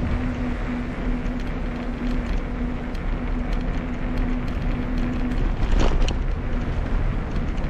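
Wind buffeting the microphone of a camera on a moving bicycle, with a steady hum for about the first five seconds and a short high squeak near the end.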